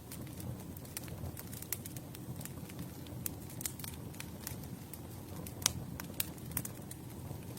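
Campfire burning with a steady low rumble of flames and irregular sharp crackles and pops of burning wood, the loudest pop about two-thirds of the way through.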